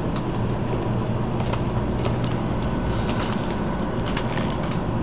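Steady rumble of a Shinkansen bullet train's passenger cabin while running, with a constant low hum and a few faint clicks.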